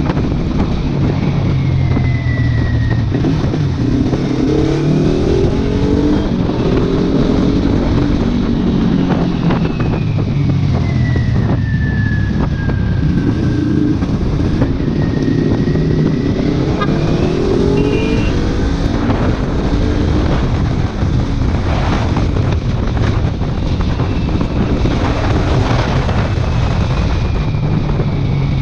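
Kawasaki Ninja 400's parallel-twin engine through a modified exhaust, riding along under heavy wind noise on the microphone. The engine pitch climbs twice as it pulls up through the revs, around a few seconds in and again midway, and drops back in between.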